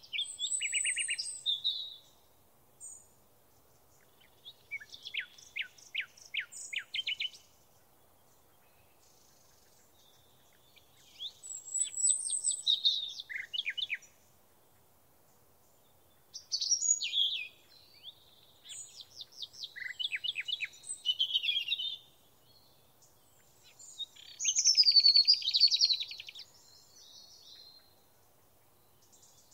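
A small songbird singing in about five high-pitched phrases of rapid trills and chirps, each one to five seconds long, with near-silent pauses between them.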